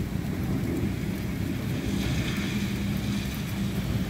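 Low, steady rumble of distant thunder over the hiss of rain.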